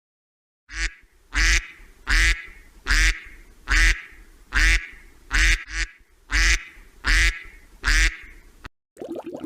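Duck quacking repeatedly: about eleven loud quacks at a steady pace, roughly one every three-quarters of a second, starting under a second in.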